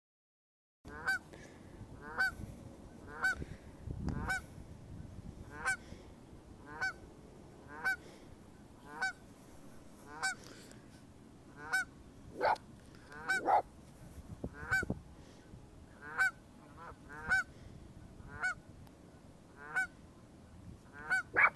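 Waterfowl at a lake calling over and over in short honks, about one a second, a few of them louder near the middle and at the very end.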